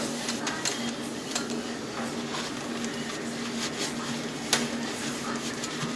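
Dry paper towel wiping across the inside walls of a microwave oven, lifting grime softened by lemon-water steam: a light rubbing hiss with small scattered clicks, over a faint steady hum.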